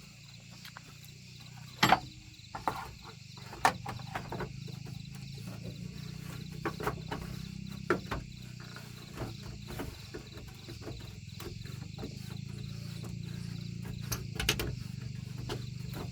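Scattered metal clicks and knocks of hand tools working on machinery, over a steady low hum and crickets chirping. The sharpest knocks come about two seconds in and near the end.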